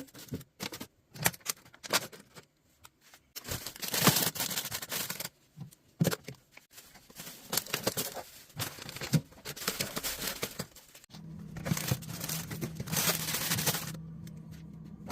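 Plastic grocery packaging rustling and crinkling as food packs are handled and put into a fridge, with scattered clicks and knocks, and two longer spells of crinkling. A steady low hum comes in about two thirds of the way through.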